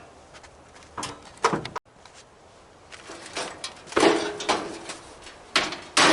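Metal parts of a barbecue grill clanking and scraping as the grill is taken apart for scrap, in a run of irregular knocks, the loudest about four seconds in.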